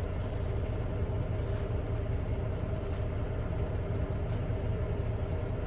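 Steady engine and road rumble inside a semi-truck's cab while driving, with a low drone and faint, evenly spaced ticks about every second and a half.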